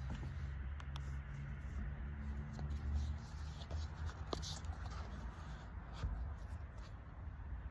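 Pen writing on paper: soft scratching strokes with small scattered ticks, over a steady low outdoor rumble.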